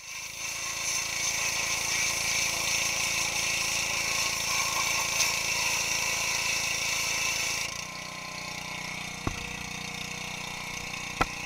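Pressure washer running, its water jet spraying onto a car engine with a steady hiss. About eight seconds in the spray hiss drops away and a lower steady running sound carries on, with two sharp clicks near the end.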